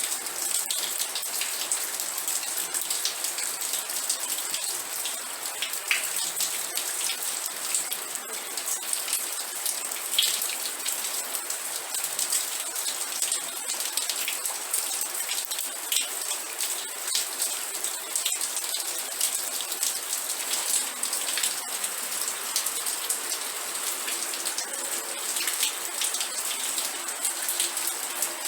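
Steady rain falling, a dense even hiss scattered with many individual drop ticks.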